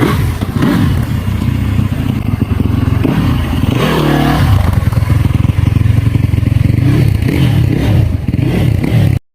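Yamaha YZ450F dirt bike's four-stroke single-cylinder engine running, with a brief change in pitch about four seconds in; the sound stops abruptly near the end.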